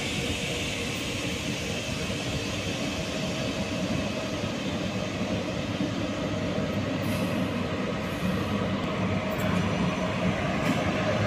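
A train running through a railway station: a steady rumble and hiss of wheels on track, with faint thin tones over it.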